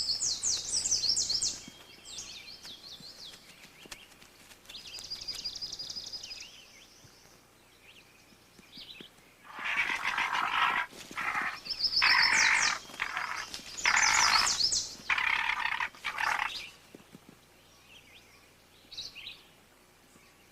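A songbird singing short, high trilled phrases, repeated every few seconds. About halfway through comes a run of five or six loud, harsh, raspy calls.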